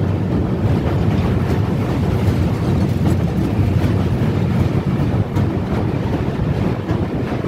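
Passenger train running across a steel truss railway bridge: a loud, steady rumble of wheels on the rails.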